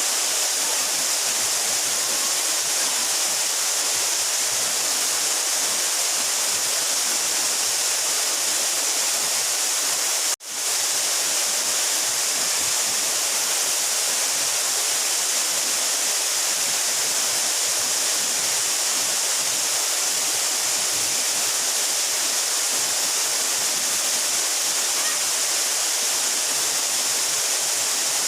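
A 12-metre mountain waterfall pouring steadily, a constant high hiss of falling water. It cuts out for a split second about ten seconds in.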